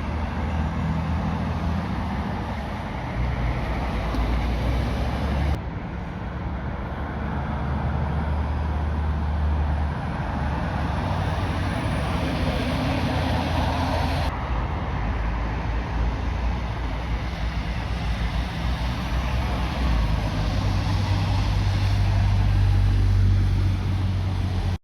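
Road traffic with heavy lorry diesel engines running and passing close by, a deep steady engine rumble over tyre and road noise. The sound changes abruptly twice, about 5 and 14 seconds in, and stops dead at the end.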